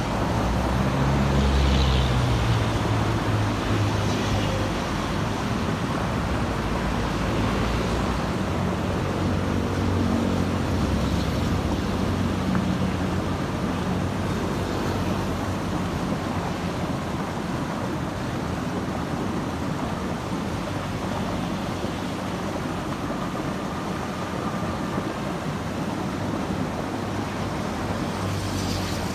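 Road traffic with heavy vehicles such as buses and trucks passing, a steady tyre-and-engine noise with a low engine rumble that swells a couple of seconds in and again about ten seconds in.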